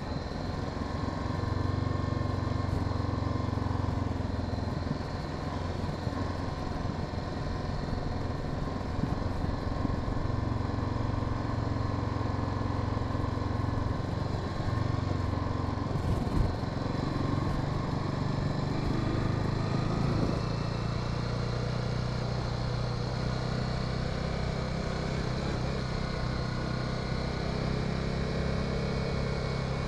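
Honda Sahara 300 motorcycle engine running under way, heard from the rider's position with road and wind noise. Its note shifts about halfway through, then runs steady.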